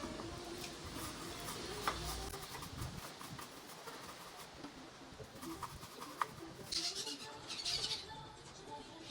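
A stiff brush scrubbing a BMW M50 engine with soapy cleaner: scratchy, rustling strokes with small clicks, heavier scrubbing about seven and eight seconds in.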